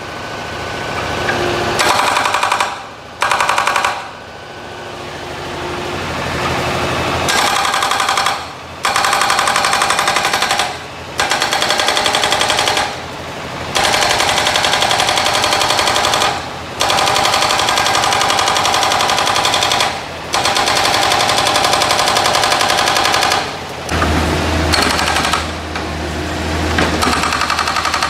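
Hydraulic breaker on a Kubota U50-5S mini excavator hammering an old engine block. It fires rapid, evenly spaced blows in runs of a few seconds, with short breaks between the runs.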